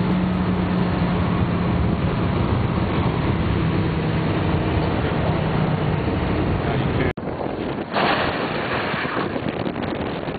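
Twin-turbo Dodge Viper V10 running hard at high speed with a steady engine note under heavy wind and road rush. About seven seconds in it cuts off abruptly to wind buffeting the microphone, with a loud gust a second later.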